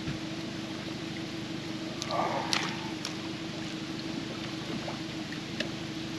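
Steady hum of a boat motor running at idle, with water noise underneath. About two seconds in there is a short, louder rush of noise with a few sharp clicks.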